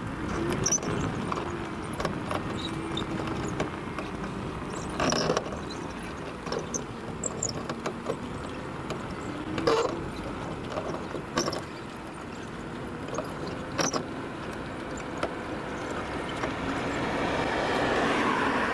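Meyra Optimus 2 power wheelchair in motion, its rear wheel squeaking in repeated drawn-out tones that waver up and down, with a few sharp knocks along the way.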